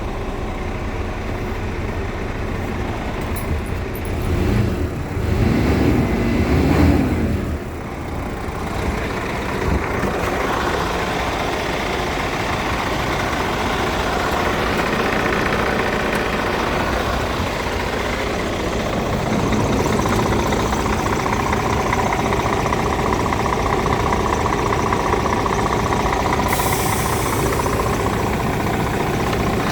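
Scania P410 dump truck's 13-litre straight-six diesel idling steadily, with a louder, wavering stretch about four to eight seconds in. A high hiss joins near the end.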